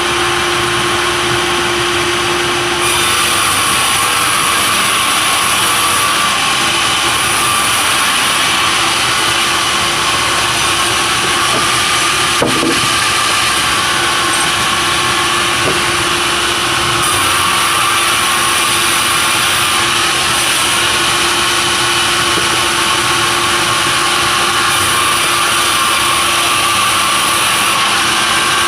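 Sawmill saw and its engine running steadily, with a higher hiss coming and going several times as timber is fed through and cut.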